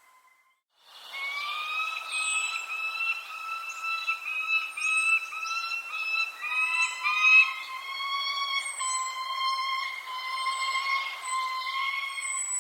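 Small birds giving short, high, falling chirps over a long steady whistling tone that steps to a lower pitch about halfway through. The sound cuts out briefly about a second in.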